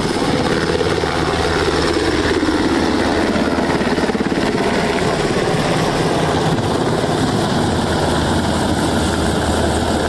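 Helicopter running with a steady, rapid rotor beat.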